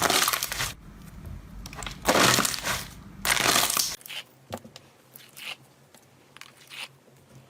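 Slime being squeezed and pressed by hand, giving noisy crackling bursts: a loud one at the start, a longer loud one about two seconds in, then a few softer, shorter ones in the second half.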